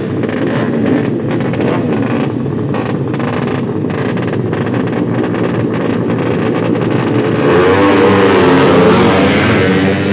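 Several two-stroke motorcycle engines revving hard together, their pitch wavering up and down. About seven and a half seconds in, the revving gets louder and climbs as bikes pull away from the start.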